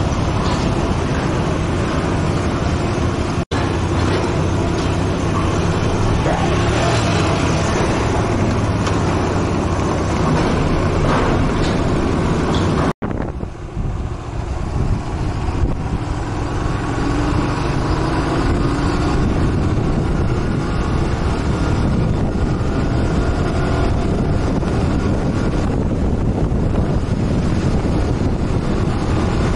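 Motorcycle engine running while riding, with wind rushing over the microphone. The sound cuts out for an instant twice, and after the second break the engine note rises and falls.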